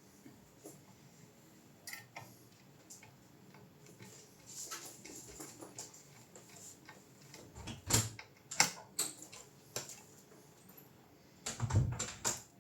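Scattered sharp clicks and light knocks at an uneven pace, busiest about two-thirds of the way in, with a heavier knock near the end.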